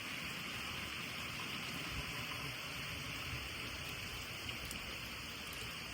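Heavy hurricane rain falling as a steady hiss, with a few faint ticks.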